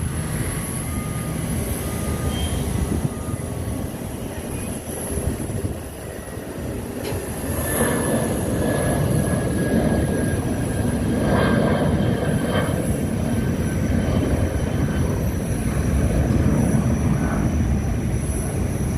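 Aircraft engines at full power during takeoff: a loud, steady rushing noise with a thin high whine above it, growing louder about eight seconds in.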